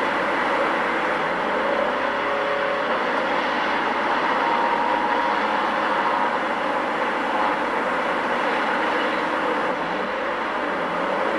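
Steady vehicle and road noise, an even rush at a constant level with no impacts.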